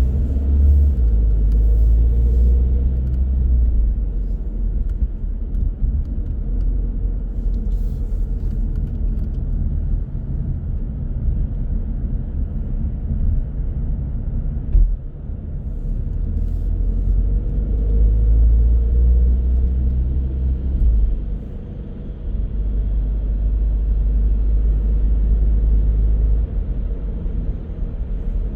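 Car driving: a steady low rumble of road and engine noise that swells and eases, with one sharp knock about halfway through.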